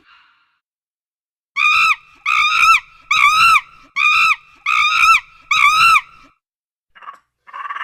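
An animal calling six times in quick succession, each call a short cry that rises and falls in pitch, then a couple of brief fainter sounds near the end.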